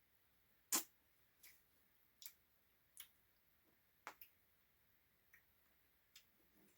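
Near silence broken by a few short, scattered clicks and smacks, roughly one a second, the first the loudest: mouth and spoon sounds of someone eating ice cream.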